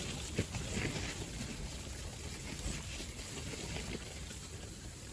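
Strong gusty wind buffeting the microphone, a rough low rumbling noise, with a faint knock or two about half a second in.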